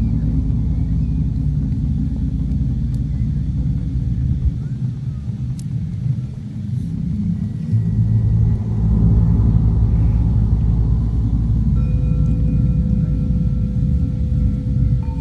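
Wind buffeting the microphone on the open coast, a loud, uneven low rumble. About twelve seconds in, a sustained bell-like ringing tone with several pitches enters over it.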